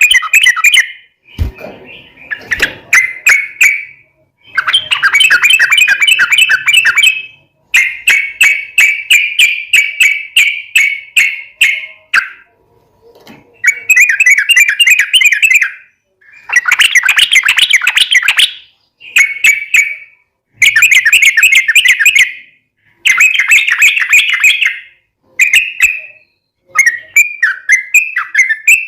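Yellow-vented bulbul (trucukan) singing long, fast rolling chatter phrases, repeated in bouts of one to three seconds with short pauses between them. The phrases turn into shorter, gliding notes near the end, and there is a single dull knock about a second and a half in.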